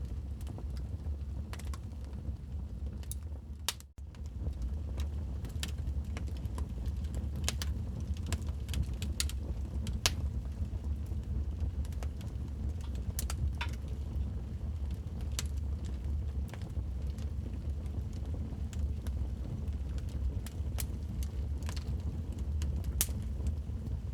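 Wood fire crackling in a fireplace: irregular sharp pops and snaps over a steady low rumble of the burning fire. The sound cuts out for an instant about four seconds in.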